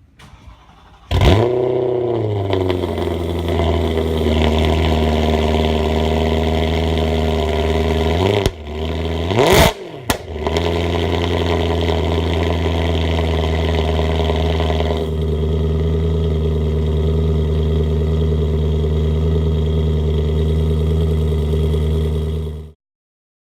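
BMW M3 E92's 4.0-litre V8 with an HMS aftermarket exhaust cold-starting: the engine catches after a moment of cranking, flares up and settles into a steady, loud idle. About halfway through there are two quick throttle blips, and the sound cuts off suddenly near the end.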